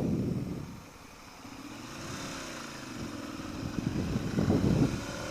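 2013 Ducati Monster 696's air-cooled L-twin engine running under way, its pitch wavering as the bike is ridden. It gets louder and rougher in the last second or so.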